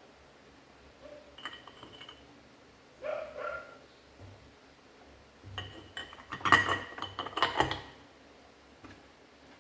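Small metal parts and hand tools clinking and ringing against each other, with a dense, loud flurry of clinks in the second half.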